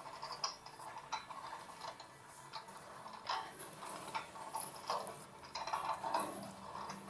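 LG Mini Turbo Drum washing machine running its rinse cycle: irregular light clicks and ticks, with a couple of brief swishes of water.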